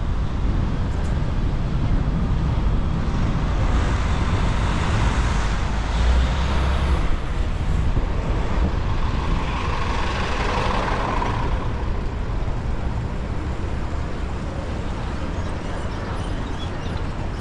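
City street traffic heard from a moving bicycle, with a steady low rumble of wind and road on the action-camera microphone; the traffic noise swells twice as vehicles pass, about four and ten seconds in.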